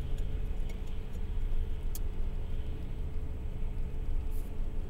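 Car engine idling at a standstill, a steady low rumble heard from inside the cabin, with a few faint, irregular clicks.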